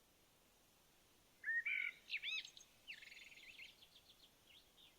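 A songbird singing faintly: a few quick swooping whistled notes about a second and a half in, then a fast run of short notes that fades away.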